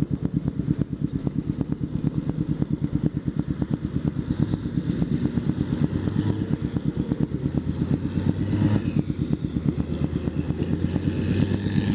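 Motorcycle engine running at cruising speed, a steady rapid low pulsing, with wind noise on the bike-mounted microphone.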